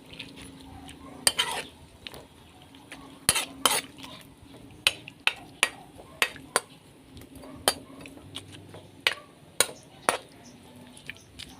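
A cooking utensil stirring long-bean adobo in a pot, clinking sharply against the pot at irregular intervals as freshly added water is mixed in.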